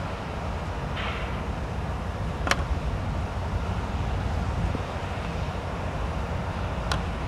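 Steady low vehicle rumble, with two sharp clicks: one about two and a half seconds in and one near the end.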